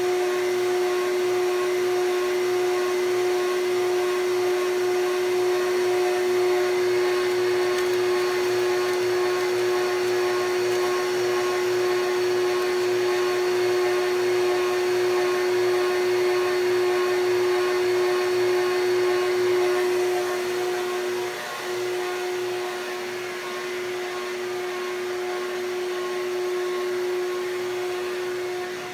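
Vacuum system motor running, a steady whine over rushing air, with a brief dip a little over two-thirds of the way through.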